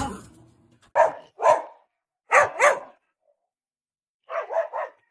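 A dog barking: two barks, then two more about a second later, and after a pause a quick run of four barks near the end.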